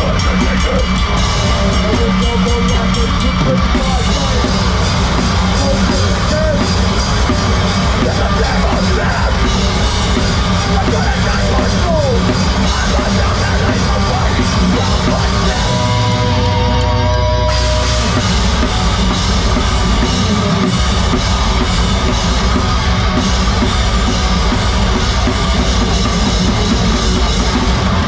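A heavy rock band playing live at full volume, with distorted guitars, bass and a pounding drum kit. About sixteen seconds in, the drums and cymbals drop out for about a second and a half, leaving held guitar notes ringing, before the full band comes back in.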